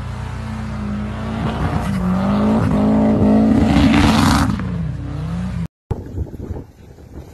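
Motor vehicle engine revving, its pitch rising and falling and loudest about three to four seconds in. It cuts off abruptly near six seconds, and fainter wind noise follows.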